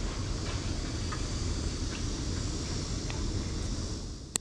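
Outdoor background noise: a steady low rumble with faint insects chirring high above it, and one sharp click near the end.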